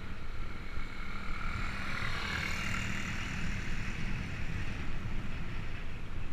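Wind rumbling on the microphone and road noise while riding, with a passing vehicle's hiss swelling and fading about two and a half seconds in.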